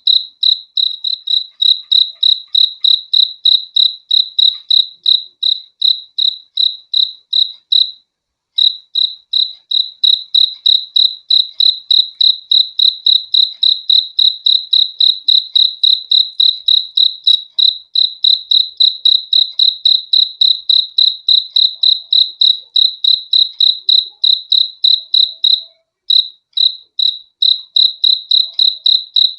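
A cricket chirping loudly: one high note pulsed steadily about five times a second, breaking off briefly twice.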